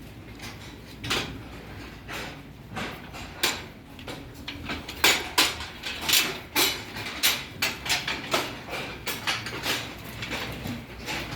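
Cow eating, with a run of sharp crunches as it bites and chews its feed. They are scattered at first and come about three a second from around five seconds in.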